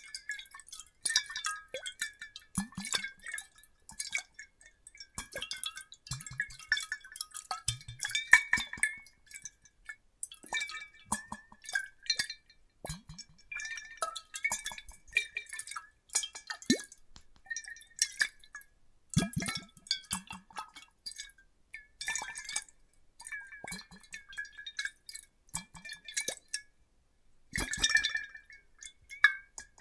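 Water sloshing in glass bottles, with many quick glassy clinks that ring briefly, small drips and occasional soft low knocks.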